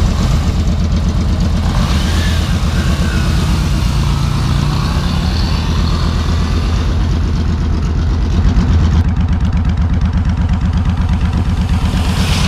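Motorcycle engine running steadily under way, its exhaust beating in a rapid low pulse, with a rushing hiss of wind and road noise rising and falling through the middle.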